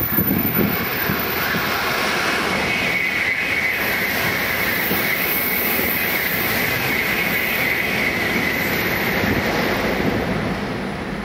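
Tokaido Shinkansen high-speed train passing at speed: a steady rushing noise with a high hiss over it, easing off slightly near the end.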